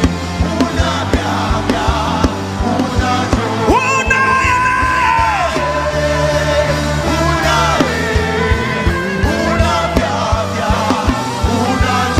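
Live worship music: a voice holding long, wavering notes that slide between pitches, over sustained low chords and a steady drum beat.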